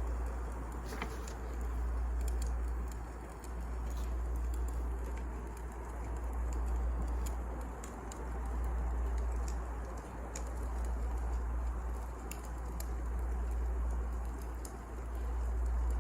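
Wood fire crackling: a low rumble that swells and fades every couple of seconds, with scattered sharp pops and snaps.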